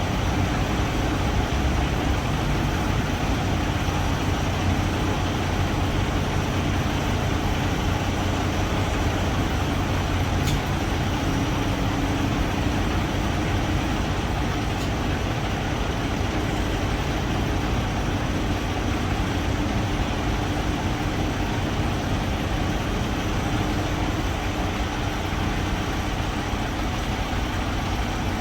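Diesel engine of a semi truck running steadily, a constant low hum under an even noise.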